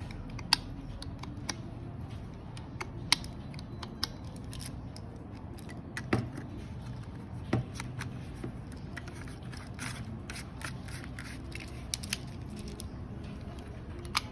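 Irregular small clicks and taps of hard plastic parts being handled, as a shower head's switch is worked, with a few louder knocks.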